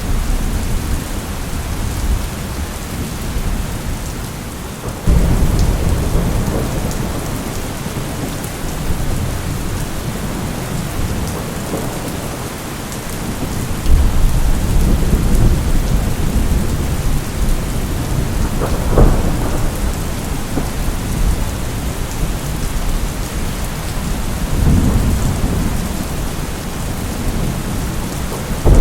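Steady heavy rain with rolling thunder: low rumbles swell and fade, building suddenly about five seconds in and again around fourteen seconds, with a sharper crack near nineteen seconds.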